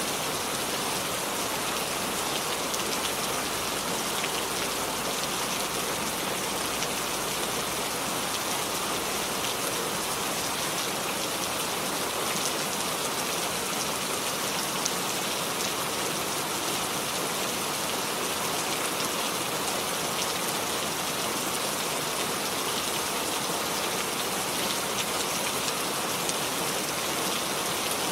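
Steady rainfall: an even hiss of rain with fine, dense patter of drops hitting surfaces, unchanging throughout.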